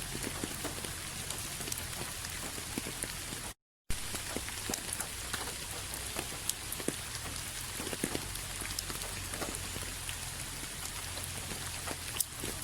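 Steady rain falling, a continuous hiss dotted with many separate drop hits. The sound cuts out completely for a moment a little past three and a half seconds in, then resumes unchanged.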